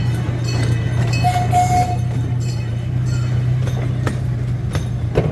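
Amusement-park train running with a steady low drone from its drive. A short steady tone sounds about a second in, and a few sharp clicks from the wheels on the track come near the end.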